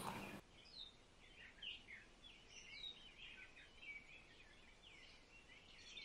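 Faint birds chirping: many quick, short calls scattered irregularly over near silence.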